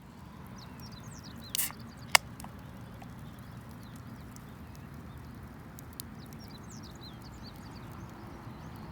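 Small birds chirping over a steady outdoor hiss, with a sharp, loud pop about two seconds in and a few fainter ticks.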